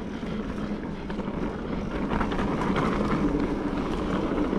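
Mountain bike rolling fast along a dirt singletrack: a steady rush of tyre and riding noise, with many small rattles and clicks from the bike and a faint low hum.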